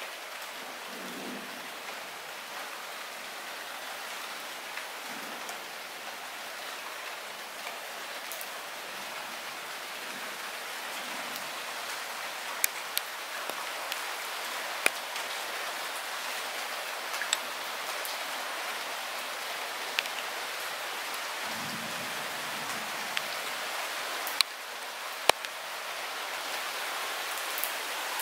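Light rain falling steadily, an even hiss of drops on surfaces. Sharp taps of single drops hitting close by come now and then, more of them in the second half.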